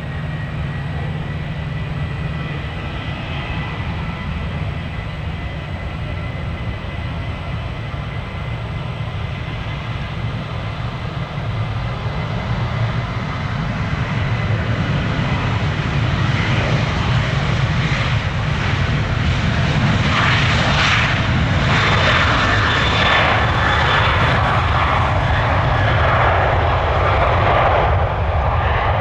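Jet airliner on final approach to land, its engine noise with a steady high whine, growing louder from about halfway through and staying loud near the end as it comes close.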